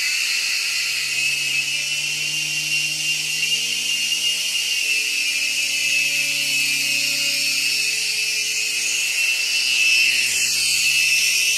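Mini toy helicopter flying, its small electric motors giving a loud, steady high whine with a lower hum beneath, wavering briefly near the end.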